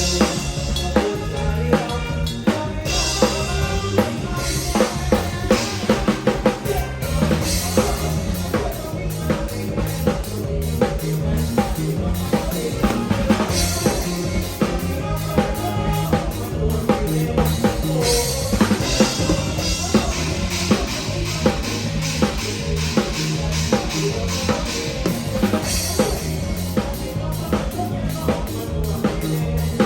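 Drum kit played with a band in a fast medley: kick drum and snare hits under a steady bass line and other instruments, with cymbal wash.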